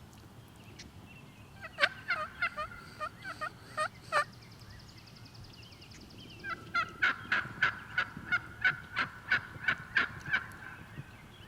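Wild turkey calling: a short run of about eight yelping notes, then a longer, faster run of about fifteen.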